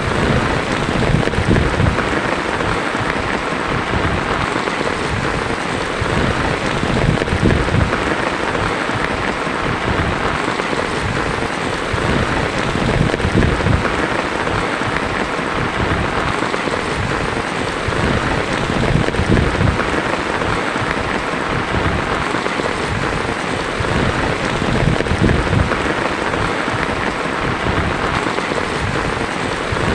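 Heavy rain falling steadily on a tin roof, a dense, even patter without a break.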